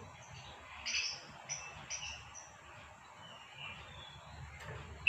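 Female lovebird calling: a run of short, sharp, high chirps about one to two and a half seconds in, followed by fainter, thinner calls.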